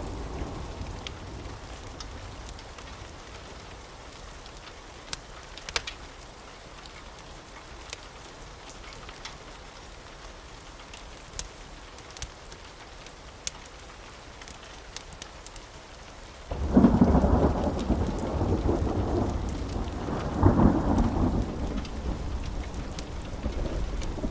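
Steady rain with scattered sharp drips, then about two-thirds of the way through a sudden loud thunderclap that rumbles on for several seconds, swelling again partway through before fading.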